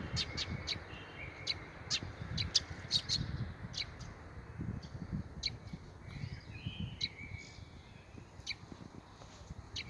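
Small birds chirping: many short, sharp chirps, quick and irregular at first, thinning out in the second half, with a brief warbled call a little after the middle, over a low rumble.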